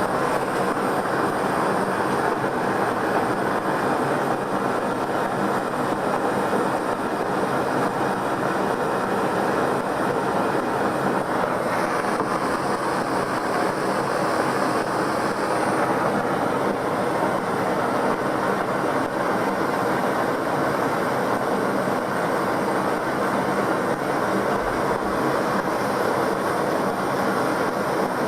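Gas burner flame blowing steadily: a constant rushing noise that holds the same level throughout.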